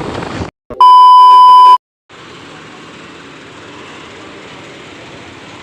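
A single loud, steady electronic beep tone lasting about a second, set between two short gaps of dead silence like an edited-in censor bleep. Road and wind noise cuts off just before it, and a quieter steady background noise follows.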